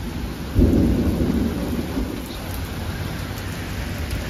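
Heavy rain pouring down in a severe thunderstorm, with a sudden loud low rumble about half a second in that fades over the next second or two.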